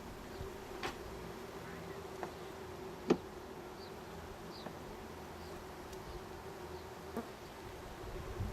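Steady hum of honeybees buzzing around an open hive, with a few light knocks and one sharper tap about three seconds in.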